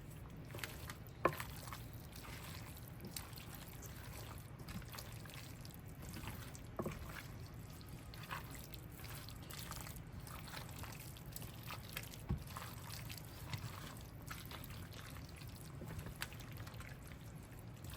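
Broccoli and cauliflower being stirred through a thick cheese sauce: faint wet squelching and scraping, with a few sharper clicks of the utensil against the dish, over a steady low hum.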